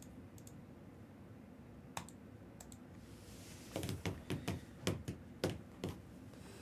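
Typing on a computer keyboard: a few scattered keystrokes, then a quick run of about ten keystrokes in the second half.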